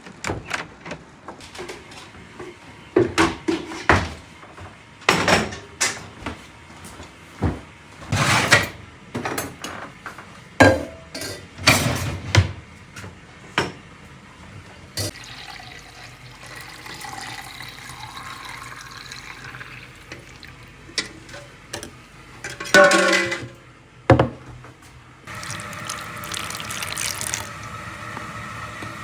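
Kitchen work sounds: a run of separate knocks and clinks of dishes and utensils, a brief clatter about three quarters of the way through, then a steady water-like noise near the end.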